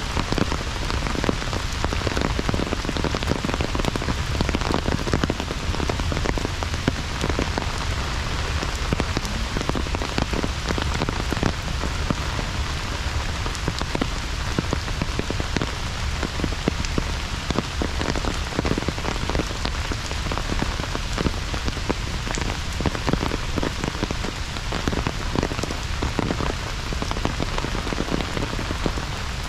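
Heavy rain falling steadily: a dense, constant patter of close raindrop hits over an even hiss.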